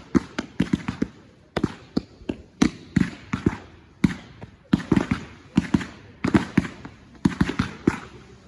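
Consumer fireworks going off in a rapid, irregular run of sharp bangs, several a second and sometimes in quick clusters.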